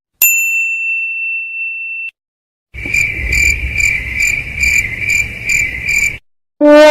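A single high-pitched electronic beep held for about two seconds, then after a short pause the stock crickets sound effect: cricket chirps about twice a second over a low rumble, stopping abruptly.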